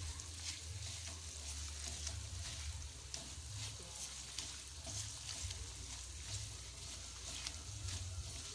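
Ground chili spice paste sizzling in hot oil in a wok while a spatula stirs it, with frequent quick scrapes and taps against the pan.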